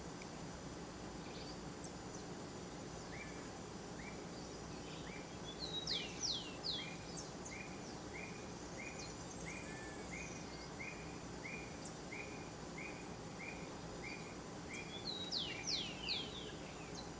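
Wild birds calling: one bird repeats a short chirp about every half second, and twice another gives a quick burst of sharp, falling whistled notes, the loudest sounds. A steady low background hum runs underneath.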